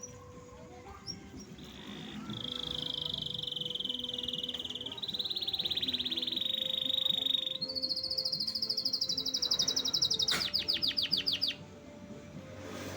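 Domestic canary in full song: a long, rapid trill held for several seconds, which steps up to a higher, faster trill and ends in a quick run of notes that each fall in pitch, stopping abruptly.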